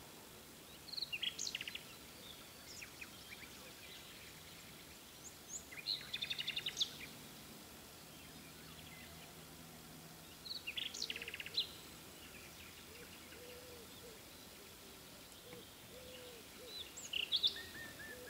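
A songbird singing short phrases of rapid high notes, four times a few seconds apart, over a steady faint background hiss. Faint short low-pitched calls come in the second half.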